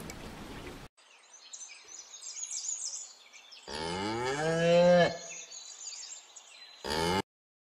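Cow mooing: one long moo of about a second and a half that rises in pitch, with birds chirping faintly behind it. A second moo starts near the end and is cut off.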